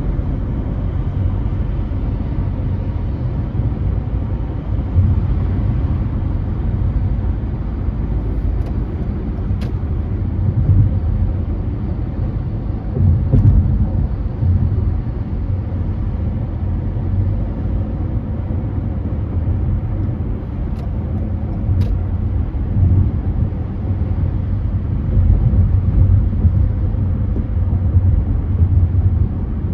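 Car driving at freeway speed: a steady low rumble of engine and road noise.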